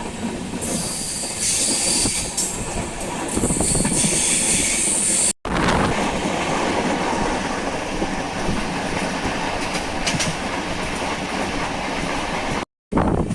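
Moving train running on the track: a steady rumble of wheels and carriage, with a high squeal or hiss over the first few seconds. It breaks off briefly twice where clips are joined.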